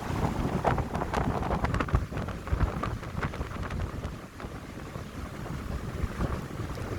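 Wind gusting through pine trees, with a low rumble of wind buffeting the microphone and a crackling rustle; the gusts are strongest in the first few seconds and ease off about four seconds in.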